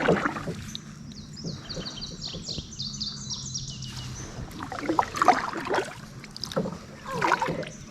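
Kayak paddle strokes splashing and dripping in lake water, several of them in the second half. Over the first half a bird sings a rapid series of short, high, repeated notes.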